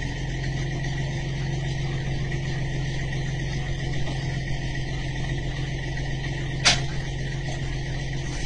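A steady engine drone with a constant hiss of noise over it, and one sharp click about two-thirds of the way through.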